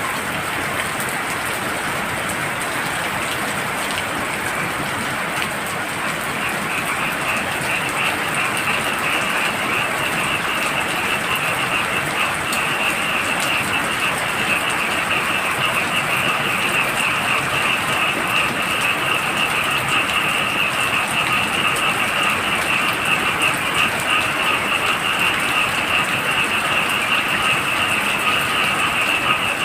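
Steady heavy rain with a chorus of frogs calling in a fast pulsing trill, which comes in about six seconds in and grows louder. A second, lower frog call joins about halfway through.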